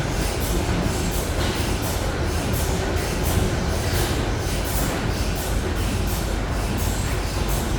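Steady low mechanical rumble of antique stationary gas engines running.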